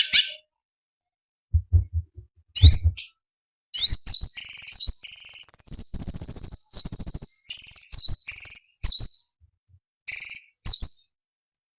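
Orange-bellied leafbird (cucak cungkok) singing high, rapid, varied chattering and whistled phrases, running almost without a break for about five seconds in the middle. A few low bumps come about two seconds in.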